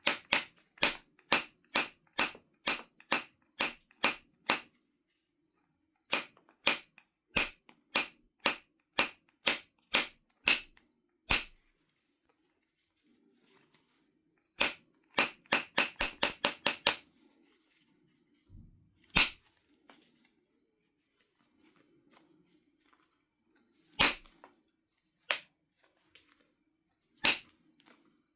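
Flintknapping strikes on a Knife River flint biface: runs of sharp clicking taps, about three a second, then a faster run, thinning to a few single strikes near the end.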